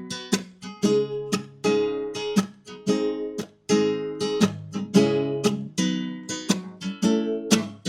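Background music: strummed acoustic guitar chords in a steady rhythm, a few strums a second.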